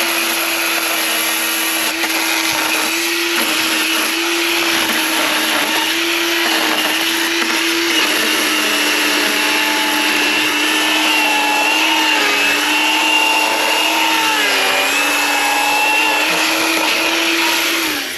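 Ryobi battery-powered electric chainsaw running steadily at full speed as it cuts firewood, a high motor-and-chain whine. The pitch sags about halfway through and again near the end as the chain bites under load, and the saw stops just before the end.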